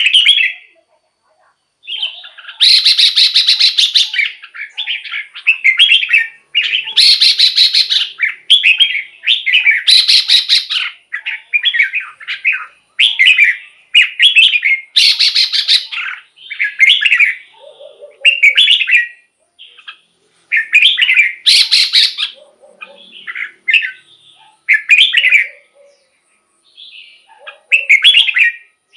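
Red-whiskered bulbul singing: short, bright warbled phrases repeated every second or two with brief pauses, among them several louder, rougher bursts.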